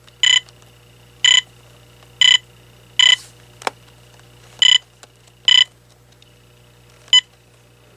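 Key-press beeps from an AT&T 7720 cordless phone as its buttons are pressed to step through the caller ID menu: seven short, identical beeps about a second apart, the last one briefest, with a single click a little past halfway.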